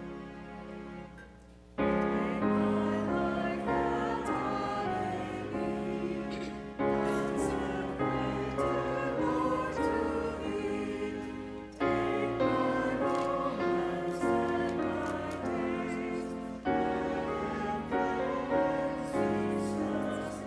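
A congregation singing a hymn with instrumental accompaniment, in phrases that each begin with a fresh swell about every five seconds after a quiet opening moment.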